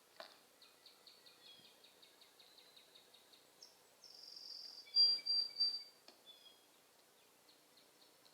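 Bird calls outdoors: a run of faint, high, evenly spaced ticks, then a louder burst of short, high-pitched calls about five seconds in.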